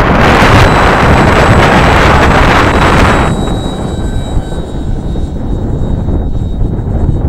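Strong wind buffeting the microphone for about three seconds, then dropping off sharply. The thin, steady motor whine of an electric RC model airplane in flight runs throughout.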